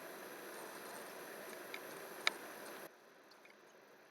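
Steady low background hiss, with one sharp click a little over two seconds in. The hiss drops away suddenly just before three seconds in.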